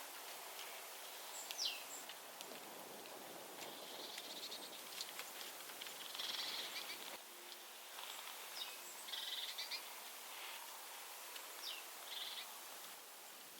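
Small songbirds calling: scattered short, high whistles that slide downward, and bursts of buzzy high chirps, over a faint steady outdoor background.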